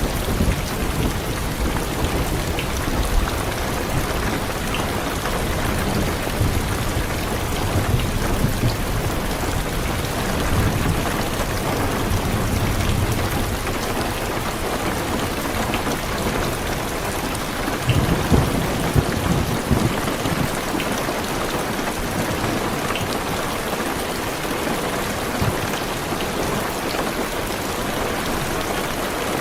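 Heavy, steady rain with low rolling thunder, the rumble swelling a few times and strongest a little past halfway.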